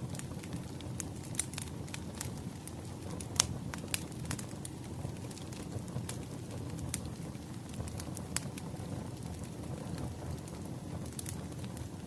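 Burning firewood crackling: irregular sharp pops and snaps over a steady low rumble of flames, with one louder pop about three and a half seconds in.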